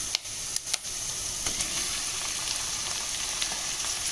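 Diced onions and green chillies frying in sesame oil in an aluminium pan: a steady sizzle, with a few brief knocks in the first second.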